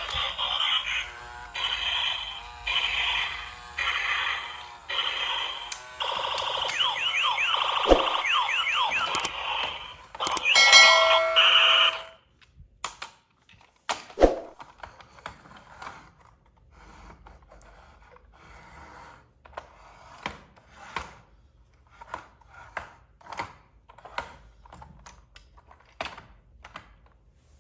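Electronic alarm-like sound effects pulsing about once every second, with gliding tones near the middle and a short string of steady beeps. They stop about twelve seconds in, leaving only light, scattered clicks and taps.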